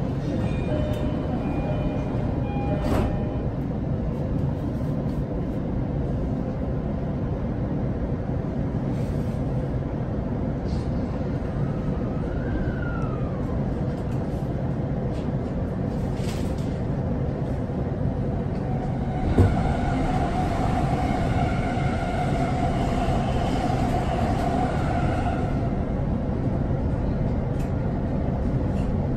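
Running noise inside a JR East E231 series 800-subseries commuter train under way: a steady rumble of wheels and running gear. About two-thirds of the way through there is a sharp knock, followed by a whine lasting several seconds.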